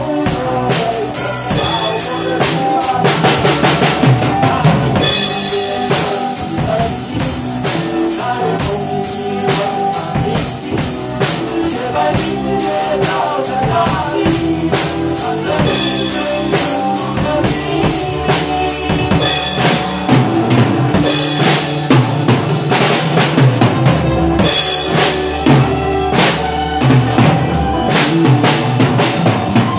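Drum kit played along with a rock band backing track: steady kick drum and snare with rimshots, and crash cymbals that come in more heavily in several passages.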